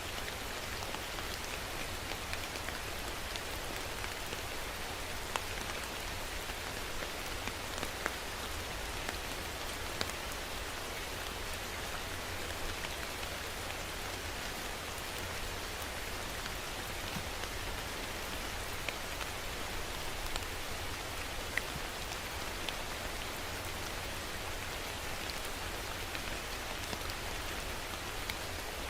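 Steady rain falling, a continuous even hiss with scattered sharper drops hitting a surface.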